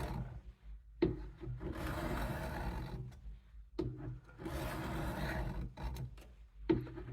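Steel knife blade drawn in long strokes across a coarse 200-grit sharpening stone, a gritty scrape on each pass of about two seconds. Passes start about a second in, near four seconds and again near the end, each opening with a click as the blade meets the stone.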